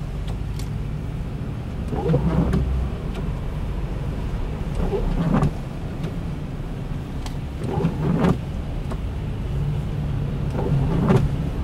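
Car running in slow traffic, heard from inside the cabin: a steady low engine hum, with a louder rougher sound coming back roughly every three seconds.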